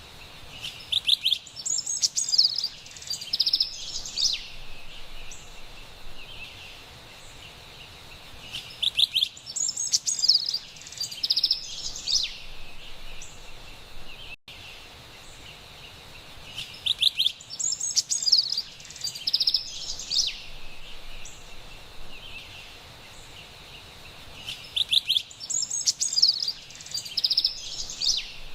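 Carolina wren singing: a quick, high run of loud notes lasting about three seconds, repeated four times about every eight seconds, over a faint steady high background hiss.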